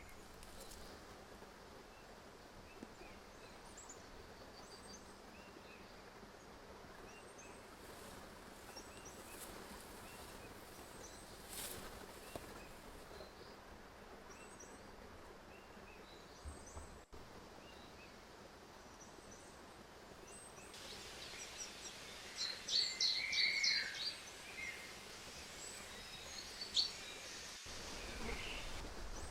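Small songbirds chirping and singing over a faint steady background hiss, with a louder run of quick, high song notes about three-quarters of the way through.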